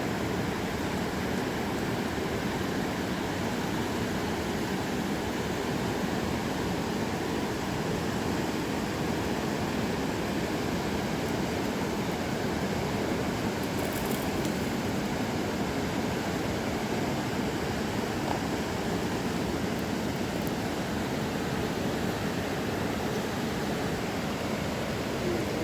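Mountain river water rushing, a steady, even sound with no change throughout.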